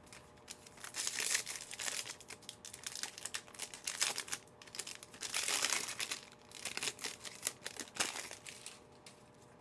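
Plastic foil wrappers of Panini Mosaic football card packs being torn open and crinkled: a run of crackles and rustles with a few louder bursts.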